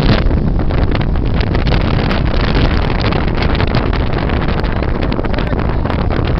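Gale-force wind blowing over a small anchored sailboat and buffeting the microphone: a loud, unbroken rumbling rush with uneven gusts.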